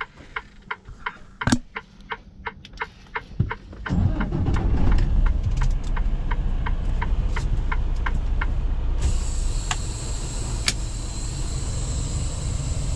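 Quick, evenly spaced footsteps, about three a second. From about four seconds in a steady low rumble joins them, and a high hiss comes in near the end.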